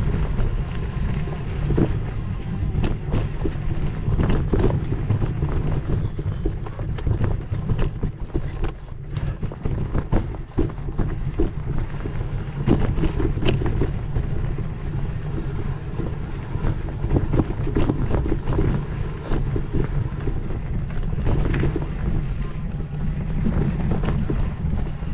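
Wind buffeting the microphone over a steady low rumble, with frequent small knocks and rattles.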